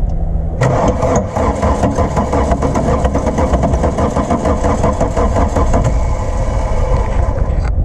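Starter cranking the Volkswagen Rabbit pickup's diesel engine, which has sat unused for years. It chugs in a fast, even rhythm from about half a second in and cuts off sharply near the end.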